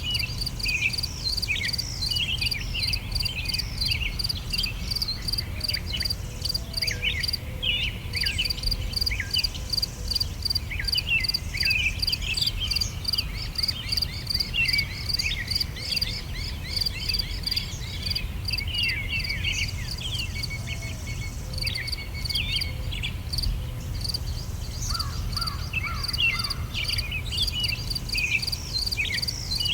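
Summer outdoor ambience: several songbirds chirping and trilling over a rapid, even pulsing of crickets, with a steady low rumble underneath.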